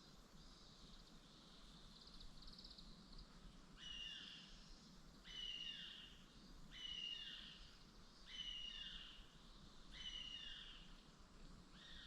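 Faint bird calls outdoors: a high buzzy trill at first, then from about four seconds in a call repeated roughly every second and a half, each one a short falling phrase.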